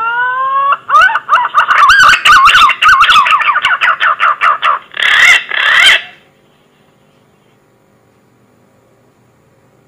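Green pigeon (punai) call played as a hunting lure: rising whistles, then a fast run of wavering whistled notes with clicks through it, and two harsher notes near the end. The call cuts off about six seconds in.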